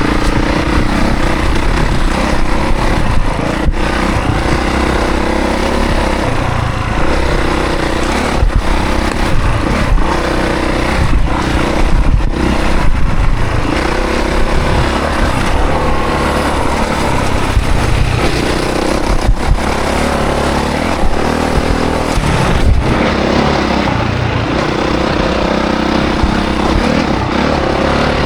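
2024 Honda CRF450 dirt bike's single-cylinder four-stroke engine running hard while being ridden, its revs rising and falling again and again with the throttle, broken by brief throttle chops.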